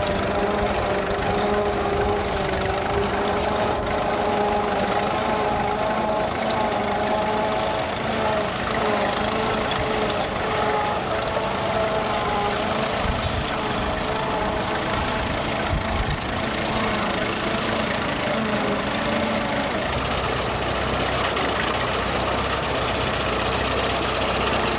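Vintage tractor engine running steadily, its pitch wandering slightly, with a low hum joining in near the end.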